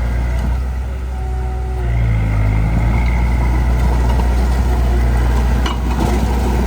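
Heavy diesel engine of earthmoving equipment running under load with a steady low hum, picking up revs about two seconds in. A short click or knock comes near the end.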